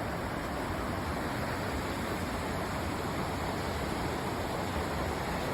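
Steady rush of a small waterfall on a mountain creek: an even hiss of falling water with no breaks.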